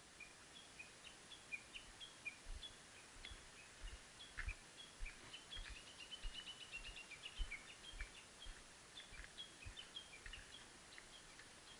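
Faint bird chirping: many short, high notes repeated throughout, busiest about halfway through, with scattered soft low thumps.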